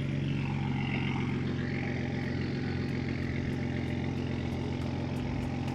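A car engine idling steadily: an even, low drone with no revving.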